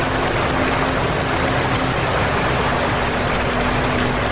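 Steady rushing hiss of heavy rain falling on standing floodwater, with a faint low hum underneath.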